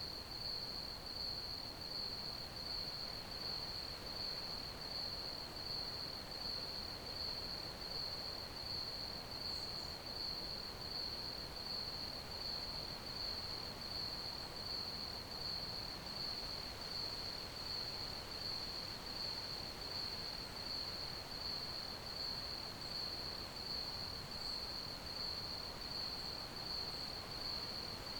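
Crickets chirping: one high, steady chirp pulsing evenly about twice a second over a faint background hiss.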